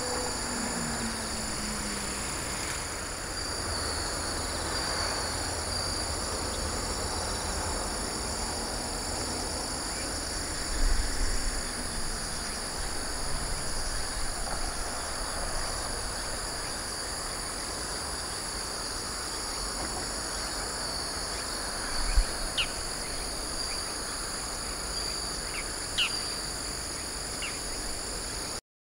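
Steady chorus of autumn insects such as crickets, trilling at several high pitches at once, with a few brief faint bird chirps near the end and a couple of soft low bumps.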